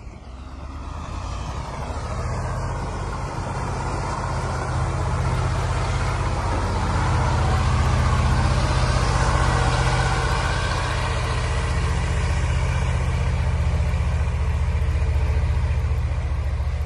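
KamAZ truck's diesel engine running hard, growing louder over the first several seconds and then holding at a steady, loud pitch.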